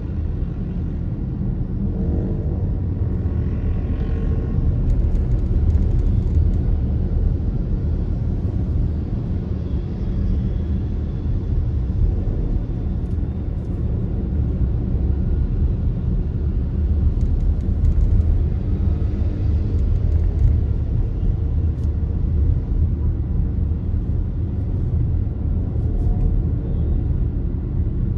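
Steady low rumble of a vehicle on the move: engine and road noise as it drives along a city street.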